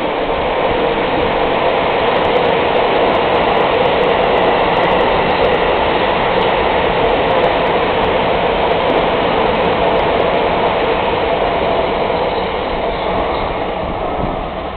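Keisei AE-series express train passing through a station at speed without stopping: a loud, steady noise of wheels and running gear on the rails as the cars go by. It fades in the last second or so as the train clears the platform.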